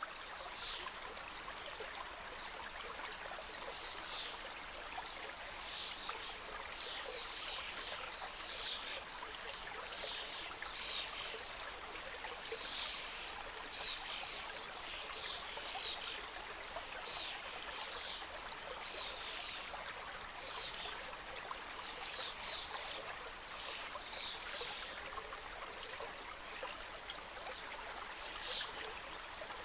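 Mountain stream running over rocks: a steady rush of flowing water, with many brief high-pitched splashes or calls about one or two a second.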